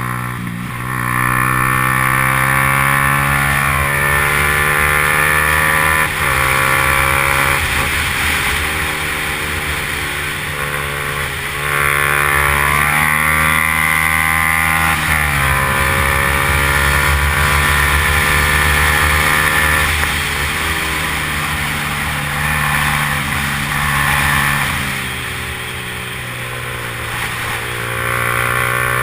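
Yamaha R15's single-cylinder four-stroke engine under hard acceleration, its pitch climbing and then dropping sharply at each gear change, several times over, with a hiss of wind and road noise.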